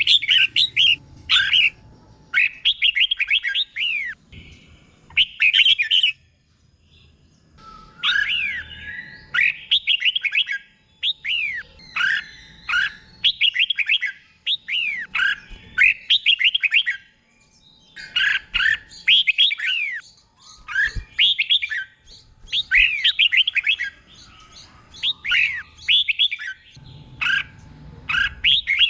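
Red-whiskered bulbul singing: short, quick phrases of down-slurred whistled notes, given one after another with brief pauses, some phrases doubled in the style kept as a teacher song for caged bulbuls.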